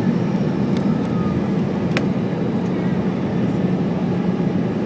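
Steady cabin noise of an Airbus A320 airliner, its jet engines and airflow heard from inside the cabin as a low hum, with a single sharp click about two seconds in.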